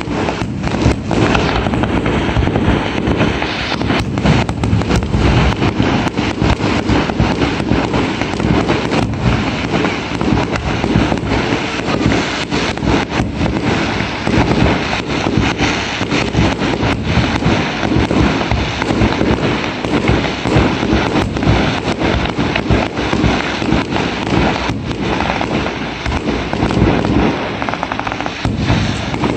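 A fireworks display: a dense, unbroken barrage of rapid bangs and crackles from aerial shells and firecrackers going off close together.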